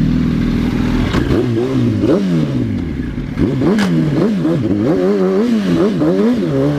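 Motorcycle engine running steadily, then revved up and down over and over from about a second in, its pitch rising and falling with each blip of the throttle. Two sharp clicks come through, one about a second in and one near the middle.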